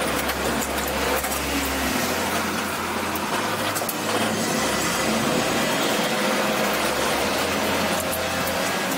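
Kei farm trucks' small engines running hard as the trucks come around the track, a steady engine and road noise with the pitch shifting now and then.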